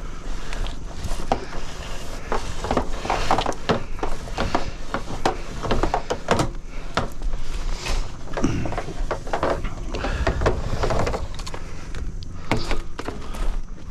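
Irregular knocks, clatters and scraping over a steady low rumble.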